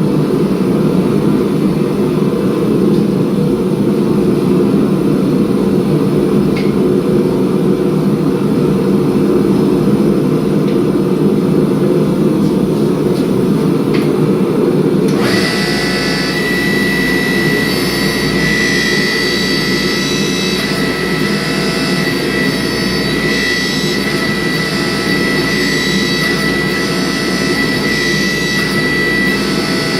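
Loud, steady machine noise: a dense even roar that switches abruptly about halfway through to a different running sound with a steady high whine and a low hum.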